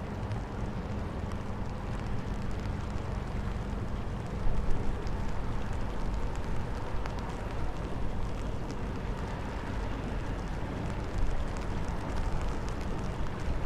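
Strong wind rumbling on the microphone, with louder gusts about four and a half and eleven seconds in, over a low steady drone.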